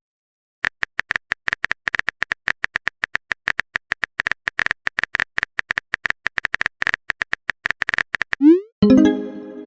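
Rapid clicking of a phone chat app's typing sound effect, many quick ticks a second, each with a small beep-like tone. Near the end the clicking stops and a short rising blip is followed by a chiming message-notification tone.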